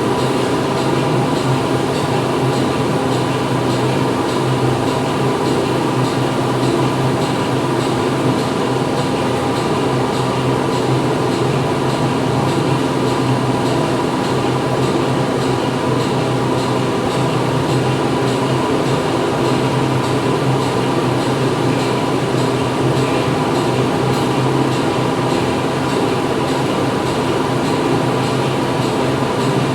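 Factory machinery running: a steady, dense mechanical din with constant hums, without a break or change.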